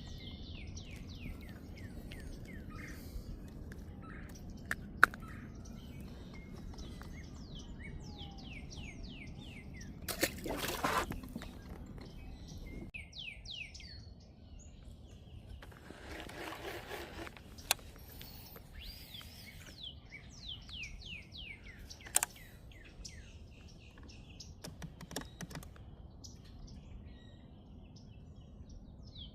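Birds calling with many short, quick down-slurred chirps. Under them is a low rumble that stops about halfway through. A few sharp clicks and two brief rushing noises break in, one of them about a third of the way in.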